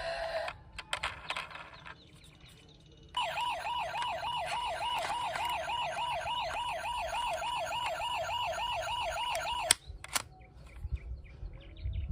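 Electronic siren of a toy emergency vehicle, a fast warble repeating about four times a second; it starts about three seconds in and cuts off abruptly with a click near the end. A few light clicks come before it.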